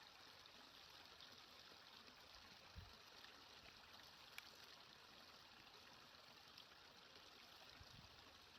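Faint, steady sound of a flowing stream, with a single short tick about four seconds in.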